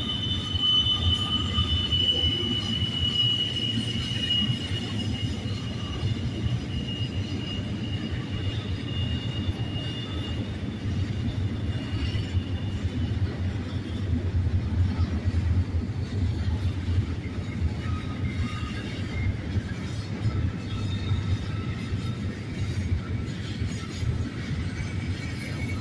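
Double-stack intermodal well cars of a BNSF freight train rolling past, a steady rumble of wheels on rail. A thin, high wheel squeal rides over it, strongest in the first few seconds and fainter later on.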